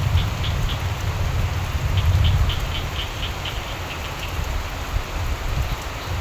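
Steady rainfall with frogs croaking in runs of short, high, rhythmic calls, about five a second: one run ends just under a second in and another starts about two seconds in. A low rumble runs underneath and swells about two seconds in.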